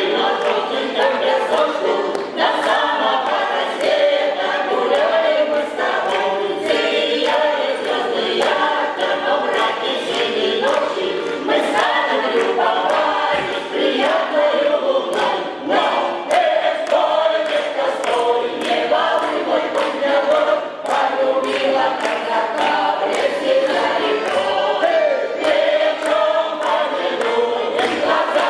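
Cossack song ensemble singing a Cossack folk song in chorus, many voices together without a break.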